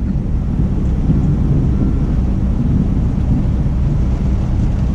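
Steady low rumble of a heavy truck's diesel engine idling, heard from inside the cab.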